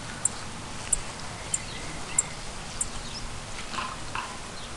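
Mother bird near her nest chirping a thin, very high note five times in the first three seconds, evenly spaced about two-thirds of a second apart, with fainter bird calls around it. Two short noisy sounds near the end.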